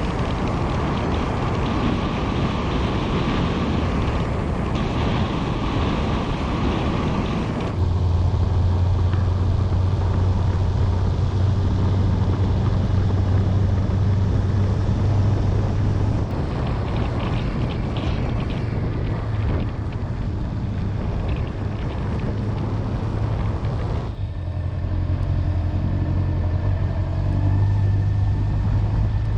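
Honda motorcycle running on the road, a steady low engine hum under wind and road noise. The sound shifts abruptly twice, about eight seconds in and again a few seconds before the end.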